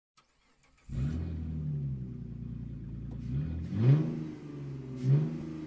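Car engine idling with its revs blipped up and back down a few times, the loudest rev about four seconds in. It starts after about a second of silence.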